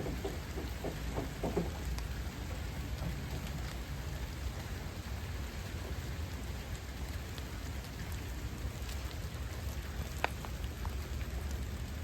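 Steady rain falling, with a single sharp tick about ten seconds in.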